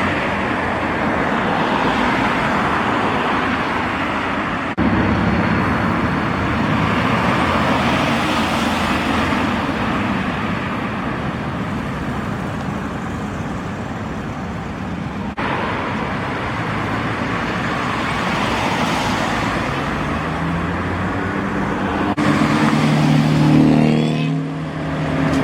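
Classic cars driving past on the road, a steady wash of engine and tyre noise that changes abruptly a few times. Near the end a car's engine runs close by with a steady low note.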